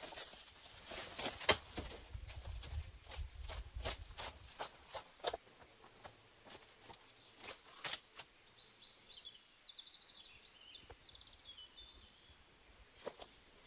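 Scattered clicks and knocks through the first half, then a small songbird calling with short chirps and a fast trill about halfway through.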